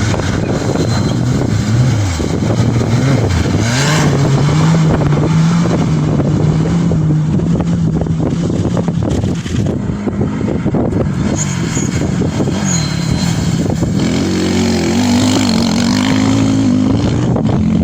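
Off-road rally vehicle engines running hard. One engine note climbs about three to four seconds in and then holds steady. A higher note rises and falls in steps near the end, over a steady rough noise.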